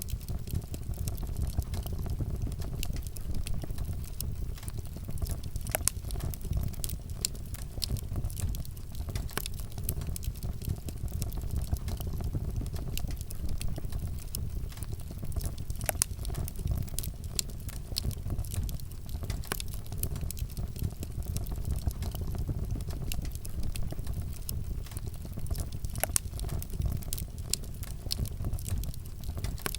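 Wood campfire burning: a steady low rumble under scattered sharp crackles and pops from the burning wood.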